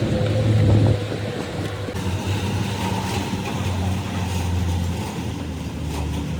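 A large engine running steadily with a low hum, a little louder in the first second.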